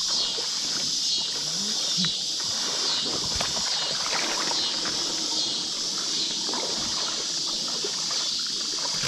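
Creek water sloshing and splashing around wading legs and gear, with small scattered clicks. Over it runs a steady high-pitched hiss that swells about once a second.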